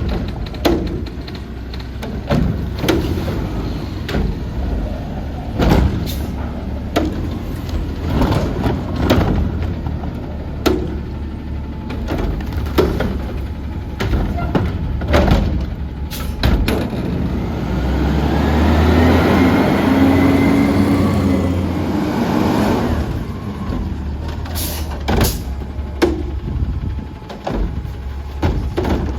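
Autocar ACX garbage truck's diesel engine running, with repeated metallic clanks and knocks. Partway through the engine revs up for a few seconds with a rising and falling hydraulic whine, then settles back to idle.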